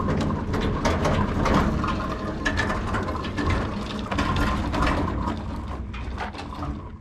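Loud, rapid mechanical clicking and rattling over a low rumble, starting and stopping abruptly.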